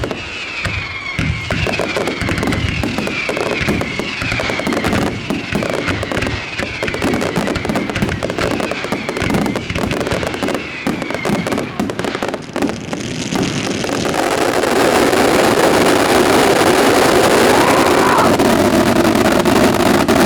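Fireworks finale: a rapid barrage of shell bursts and bangs, with a repeating rising-and-falling whistle over it. About fourteen seconds in it gives way to a louder, continuous roar of overlapping bursts.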